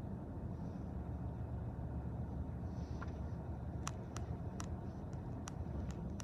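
A train rolling past, a steady low rumble, with a series of sharp clicks starting about four seconds in.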